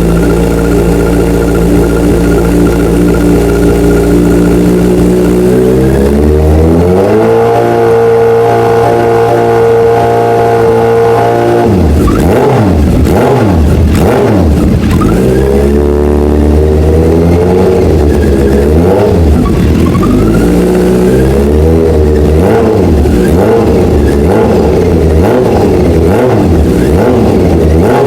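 Kawasaki Z800's inline-four engine through an SC Project CR-T aftermarket exhaust, loud throughout. It runs steady, climbs to a held higher rpm about six seconds in, and from about twelve seconds on is revved up and down in repeated quick blips.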